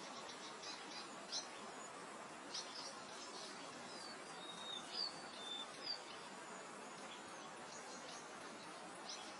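Meadow ambience: a steady, soft hiss of wind under small birds calling. There are short high chirps in the first few seconds and a handful of brief whistled notes in the middle, the loudest of them around halfway, then one more chirp near the end.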